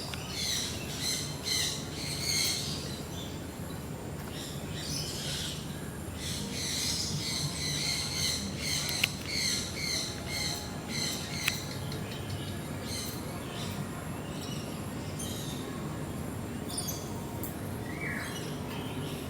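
Many birds chirping and calling, busy for the first half and thinner later, over a steady low hum.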